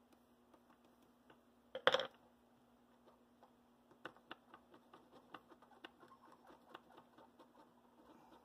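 Small, irregular clicks and scratches of a soldering iron and wire being worked against a model locomotive truck, with a brief louder burst about two seconds in, over a steady low hum.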